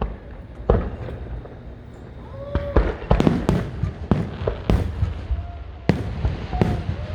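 Aerial fireworks bursting in a string of sharp bangs, with a rapid cluster of several about three seconds in.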